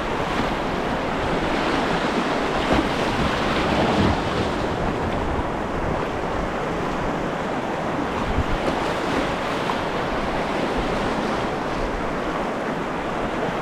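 Steady rush of river water around a kayak, with wind noise on the camera's microphone.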